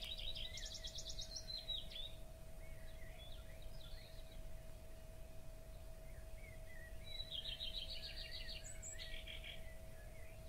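A songbird singing outdoors: two song phrases of rapid repeated high notes, one at the start and one about seven seconds in, with softer chirps in between. A faint steady hum runs underneath.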